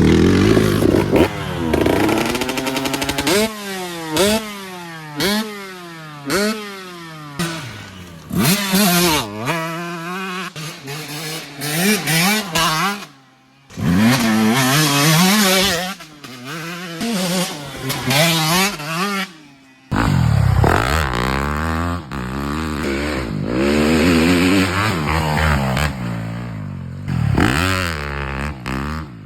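Dirt bike engine revving, its pitch climbing and dropping again and again as the rider accelerates and shifts through the gears. About twenty seconds in it changes to a steadier, rumbling engine sound.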